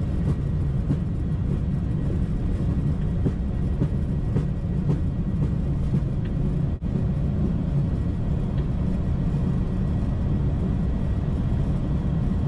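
Boeing 737-800 accelerating down the runway on its takeoff roll: the CFM56 engines run at takeoff thrust over a heavy, steady low rumble from the wheels, with a steady hum and faint scattered ticks. The sound drops out for a moment about seven seconds in.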